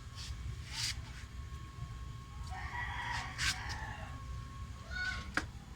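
A rooster crowing once, about two and a half seconds in, with a few sharp clicks around it.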